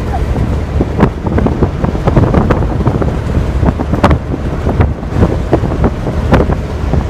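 Wind buffeting the microphone: a loud, rumbling low roar with scattered knocks and rustles.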